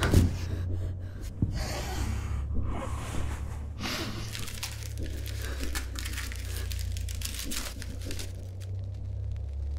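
A steady low drone runs under scattered rustles and two short breathy, hissing bursts, about two and four seconds in.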